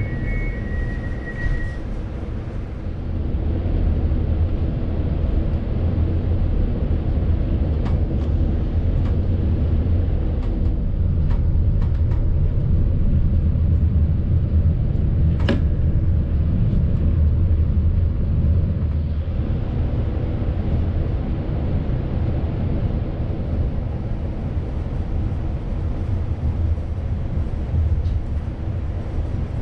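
Passenger train running at speed: a steady low rumble of wheels on rails that grows louder about three seconds in, with a single sharp click about halfway.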